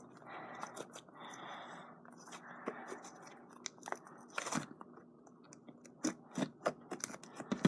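Slime being kneaded and squished by hand, a fluffy shaving-cream slime worked into a regular slime, giving irregular wet clicks and small pops.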